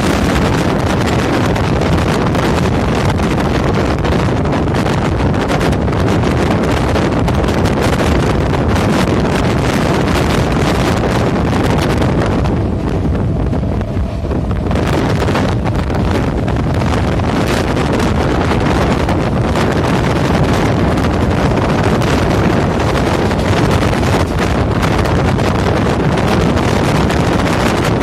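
Wind buffeting the microphone held out of a moving electric suburban train, over the steady rumble and rattle of the train running along the track. The hiss briefly turns softer and duller about halfway through.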